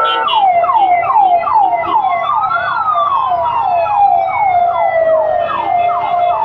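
Fire engine sirens sounding together. One repeats a quick falling sweep about twice a second, over a second, slower wail that rises to a peak near the middle and then falls away.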